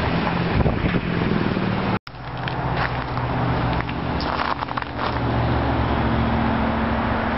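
A car driving on an icy road, heard from inside: steady engine and road noise with scattered crackling clicks. The sound cuts out for an instant about two seconds in.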